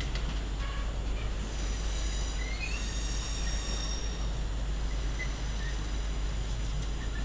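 Train moving through a station: a steady rumble with thin, high squealing tones from the wheels on the rails.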